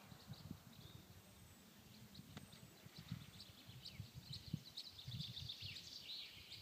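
Faint small-bird song, many short high chirps that grow busier in the second half, over low, irregular rumbling.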